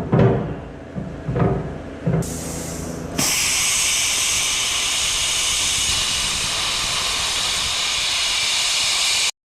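A few ringing knocks on metal, then a plasma cutter's arc starts with a steady high hiss as it cuts through steel, and stops suddenly near the end.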